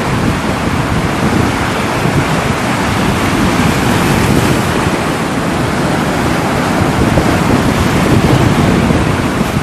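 Water rushing, a loud, steady, unbroken wash of noise with no pauses.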